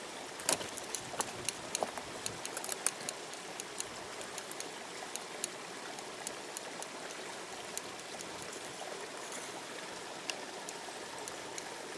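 Steady rush of a river, with many small sharp clicks and taps over it, thick in the first few seconds and then scattered.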